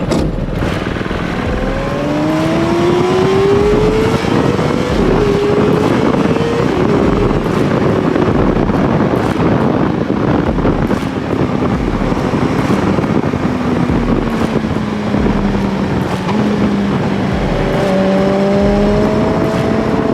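Road-going go-kart engine driving on: the engine pitch climbs over the first few seconds, sags and falls away through the middle, then climbs again near the end, over steady rushing road and wind noise.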